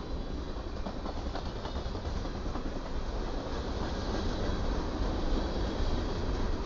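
Freight train's gondola and tank cars rolling past close by: a steady rumble of steel wheels on the rails, with light scattered clicks.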